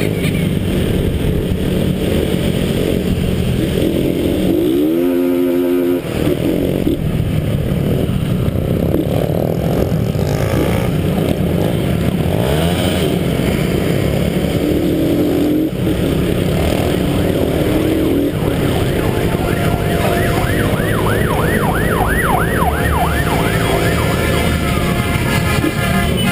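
Many motorcycle engines running together, their revs rising and falling. For a few seconds near the end, a fast repeating warbling tone sounds over them.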